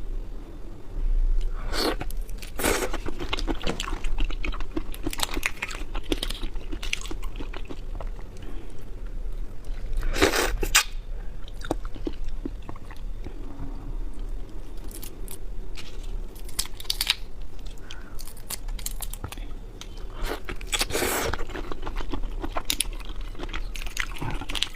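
A person chewing and biting raw shrimp close to the microphone: wet chewing with irregular sharp crunches, the loudest a few seconds in, at about ten seconds and near twenty seconds.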